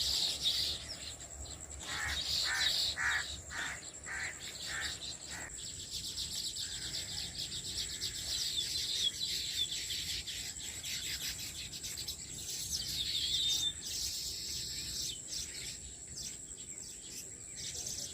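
Baya weaver birds chattering with dense high chirps, over a steady high insect drone. From about two seconds in, for a few seconds, a run of evenly spaced lower calls, about two a second.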